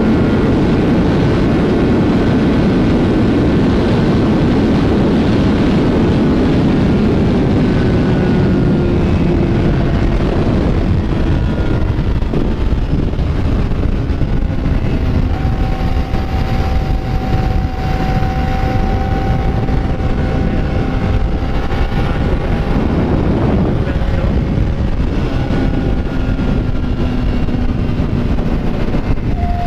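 Motorcycle engine running under way, its pitch slowly falling and rising as speed changes through the curves, over a dense rush of wind noise on the microphone.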